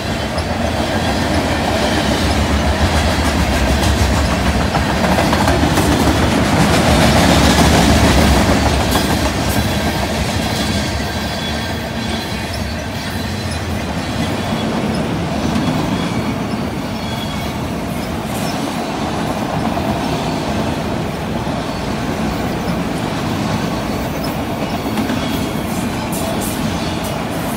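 Freight cars of a long CN train rolling past: a steady rumble and rattle of steel wheels on the rails with clickety-clack over the joints. The cars are covered hoppers, then enclosed autorack cars. The train is loudest about seven to eight seconds in.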